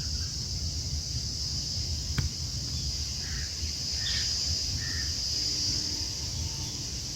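Steady high-pitched insect chorus, like crickets or cicadas, over a low outdoor rumble, with a few short bird calls in the middle and a single sharp click about two seconds in.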